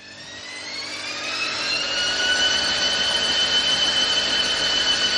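Candy washing machine spinning up on a spin cycle: the motor's whine climbs in pitch over about two seconds and then holds steady, over a rushing noise from the drum that keeps getting louder.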